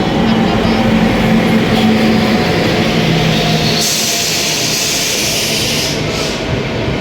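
Train running on the rails with a steady rumble and a few low steady tones, joined about halfway by a hiss that stops shortly before the end.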